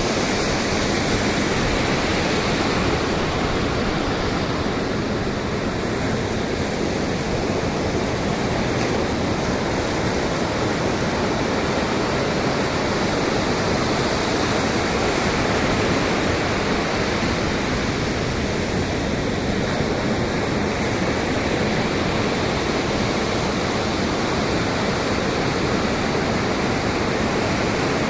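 Ocean surf and wind: a continuous rushing of breaking waves that swells and eases slightly but never drops away.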